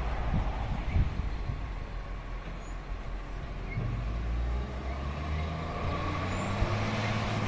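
Garbage truck's diesel engine running, a steady low hum that rises slightly in pitch in the second half.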